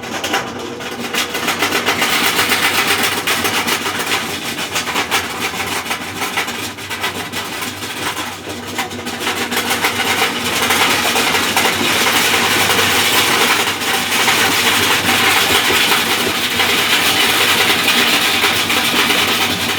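Consul 12 kg washing machine running with a loud, continuous grinding, scraping rattle full of small clicks, as if a loose object were knocking about underneath during washing or spin. It is the sign of the fault under the machine that broke a protective guard there and has affected the drum's rotation.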